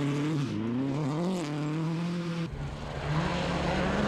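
Onboard sound of a 2005 World Rally Car's turbocharged four-cylinder engine: it eases off, then revs back up about a second in. About two and a half seconds in, the sound cuts abruptly to another rally car's engine running at a steady pitch over a louder low rumble of road noise.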